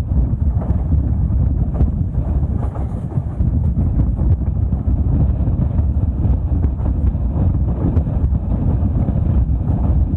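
Train running at speed: a loud, steady low rumble with frequent small knocks and rattles, and wind buffeting the microphone.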